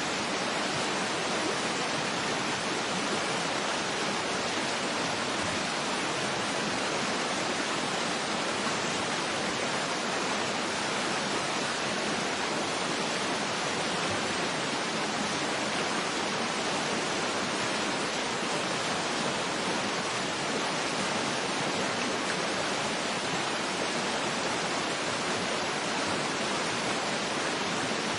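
Waterfall rushing steadily: an even, unchanging hiss of falling water, with little deep rumble.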